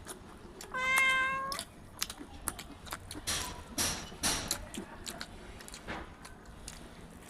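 A cat meows once, a single drawn-out call about a second in, then soft eating noises with small clicks follow.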